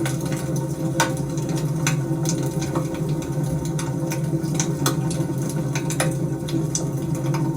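Wood fire crackling: irregular sharp pops and snaps over a steady low rumble, with a stronger pop about a second in.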